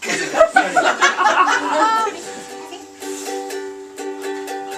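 Ukulele strummed in steady chords as the accompaniment to a song, with voices over it for the first two seconds; after that the strumming goes on alone in a regular rhythm.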